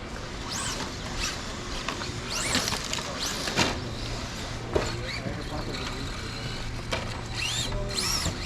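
Electric motors of radio-controlled off-road cars whining, rising and falling in pitch several times as the cars speed up and slow down, with a few sharp clicks and background chatter.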